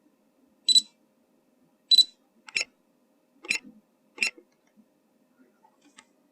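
Short electronic beeps and clicks from a drone remote controller: two high beeps about a second apart, then three sharp clicks spread over the next two seconds.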